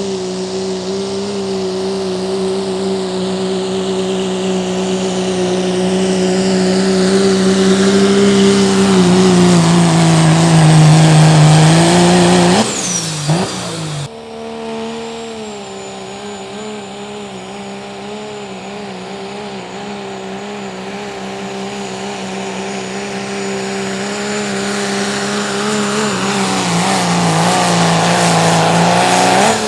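Pro street diesel pickup trucks in a sled pull, the engine held at high, steady revs and growing louder down the track. About 12 seconds in the revs sag, then swoop and drop as the pull ends; after a cut a second truck pulls the same way, its revs sagging again near the end.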